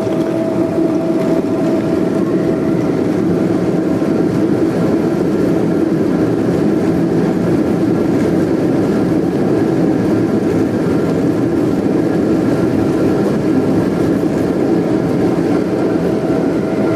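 Boeing 747 passenger cabin noise: a loud, steady drone of engines and airflow with a constant hum of several tones, unchanging throughout.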